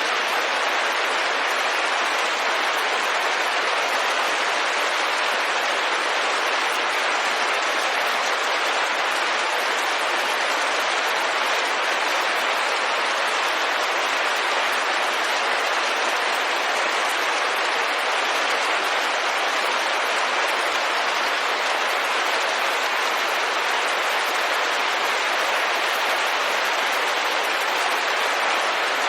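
Steady rain hitting a window, a dense even patter with no let-up.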